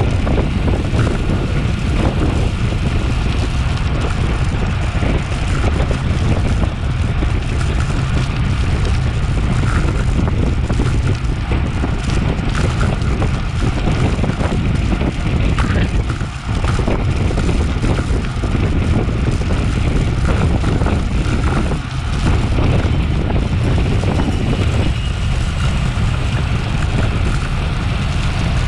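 Wind rushing and buffeting over a Garmin VIRB action camera's microphone while riding a road bike at race speed; a steady, heavy low rumble.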